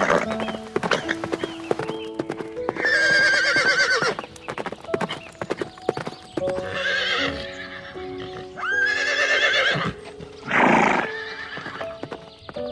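Horse neighing three times in long, wavering whinnies, with a run of hoof clip-clops at the start and a short breathy blow near the end. Soft background music plays underneath.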